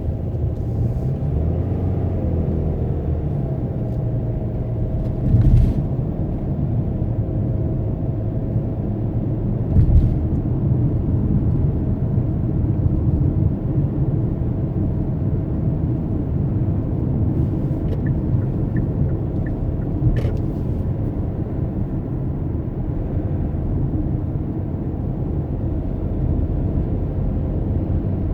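Steady low rumble of a car driving, with a short thump about five and a half seconds in and another about ten seconds in.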